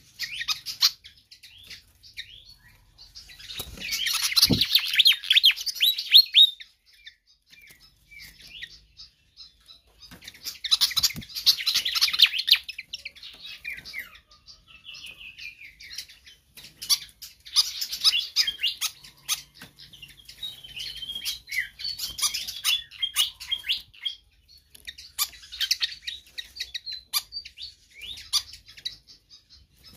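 Fantail (sikatan kipas) singing: bursts of rapid, high chirping song every few seconds, the loudest two in the first half, with quieter chirps and ticks between.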